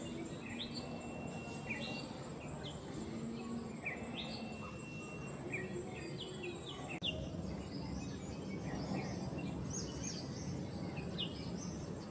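Wild birds calling: many short chirps and whistles, some sliding up and some down, scattered throughout over steady low background noise.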